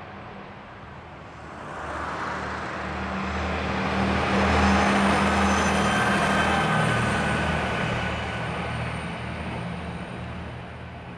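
A diesel railcar passing by: its engine hum and wheel noise build from about two seconds in, are loudest in the middle, and fade away near the end.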